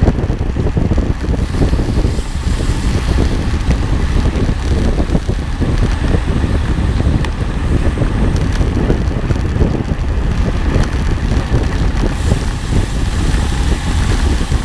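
Wind buffeting the microphone: a loud, steady low rumble that flutters unevenly throughout.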